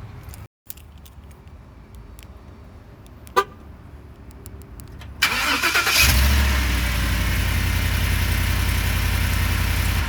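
Ford F150 Raptor's V8 engine being started: a short sharp chirp about three seconds in, then the starter cranks briefly about five seconds in, the engine catches and runs steadily. It starts readily now that the sticking starter relay has been thumped loose.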